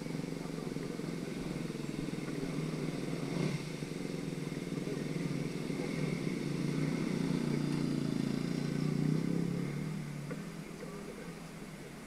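Off-road motorcycle engine running, growing louder to a peak about nine seconds in, then fading away.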